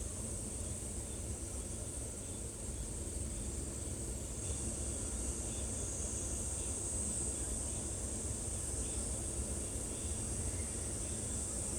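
Outdoor ambience: a steady high-pitched insect drone that swells slightly about four seconds in, over a low rumble, with faint short chirps now and then.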